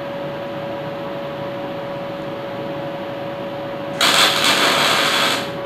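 Steady hum with one constant tone, then about four seconds in a loud burst of electric welding lasting about a second and a half, a short tack weld on steel rod.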